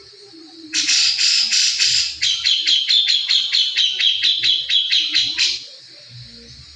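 Songbird singing a rapid 'recing' chatter, the kind of song kept as masteran tutor song for caged birds: a fast run of short, sharp, repeated notes, about five a second, starting about a second in and breaking off about a second before the end.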